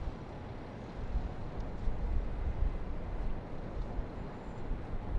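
City ambience heard from high above: a steady wash of distant traffic noise with wind rumbling on the microphone.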